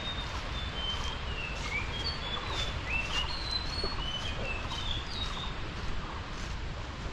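Birds chirping, many short high calls scattered throughout, over a steady low rushing noise.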